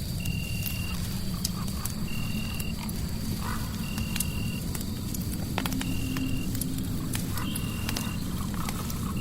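Fireplace crackling over a steady low rumble, with irregular sharp pops. Over it a short, high, even tone repeats about every second and a half, and a faint steady high whine runs beneath.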